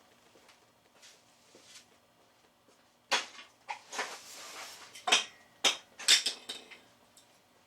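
Metal antenna mount parts clinking and knocking together as they are handled, a quick run of sharp clinks starting about three seconds in, one ringing briefly.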